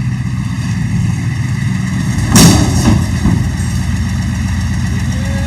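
Engine idling steadily, with one loud sharp bang about two and a half seconds in, followed by a couple of fainter knocks.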